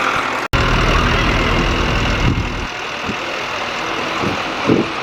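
Farm tractor engine running with a deep rumble, heavy for the first two and a half seconds after a brief break in the sound about half a second in, then lighter.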